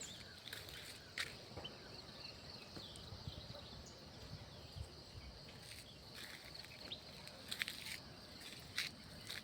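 Faint outdoor nature ambience: a steady high insect hum with short, sharp chirps scattered through it.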